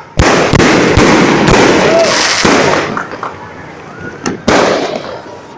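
Fireworks going off: a quick string of loud bangs with dense crackling over the first three seconds, then one more sharp bang about four and a half seconds in.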